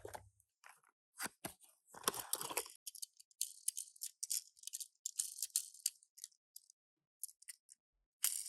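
Toy car packaging being handled and opened: a few sharp clicks and knocks in the first seconds, then bursts of crinkly rustling.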